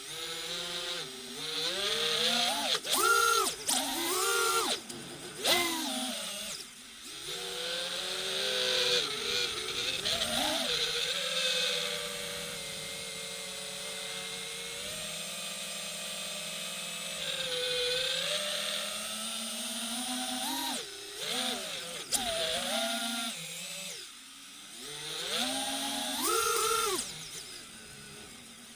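DJI FPV drone's electric motors and propellers whining, the pitch rising and falling again and again as the throttle is worked, with short dips where the motors ease off.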